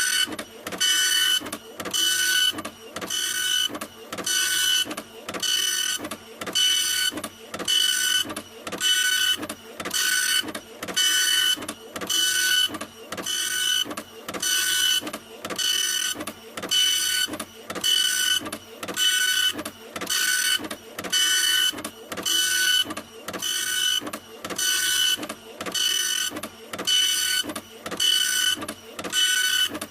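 Printer printing: a rhythmic mechanical whine that repeats about once a second, each pass a burst of motor whine and rattle, steady and unbroken.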